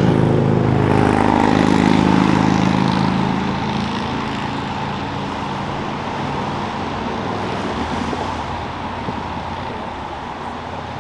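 A car engine running loud and then fading away over several seconds, as from a car driving off.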